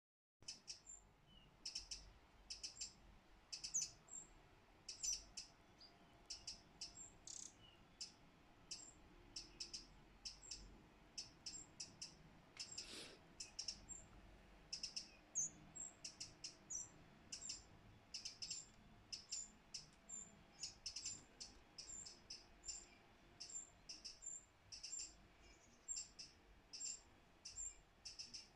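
A young bird calling for food with short, high chirps repeated over and over, about one or two a second, as its parent feeds it.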